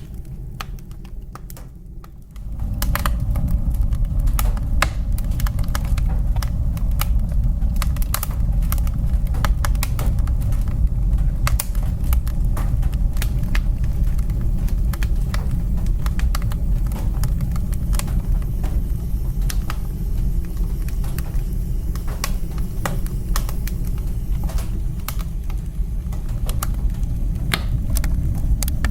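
Wood fire crackling in a fireplace: irregular sharp pops and snaps over a steady low rumble, which gets louder about two seconds in.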